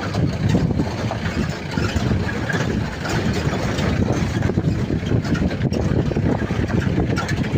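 Off-road jeep driving: the engine running under an uneven, jolting rumble from a rough track.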